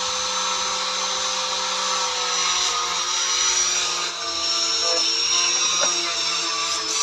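Electric power tool motor running at steady full speed with a level whine, just after spinning up.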